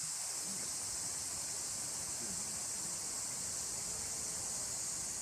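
Chorus of night insects, a steady high-pitched continuous trill.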